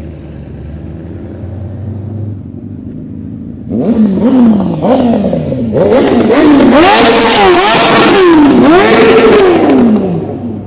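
A performance engine idling, then revved in a string of quick blips from about four seconds in, each rising and dropping in pitch. The revs grow louder from about six seconds in and stop just before the end. Heard up close, it sounds "mean".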